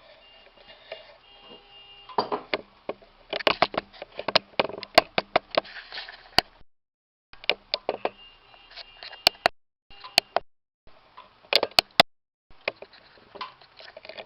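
Quick runs of sharp clinks and knocks of kitchenware being handled, some with a brief ringing, broken several times by sudden cuts to silence.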